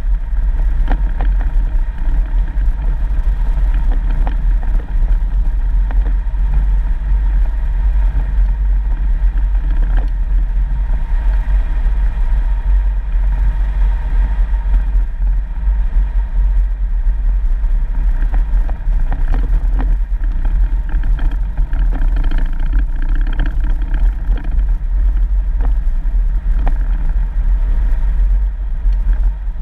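A 4x4 vehicle driving on a dirt road: a steady, continuous engine and tyre rumble dominated by heavy low-end noise, with occasional faint clicks.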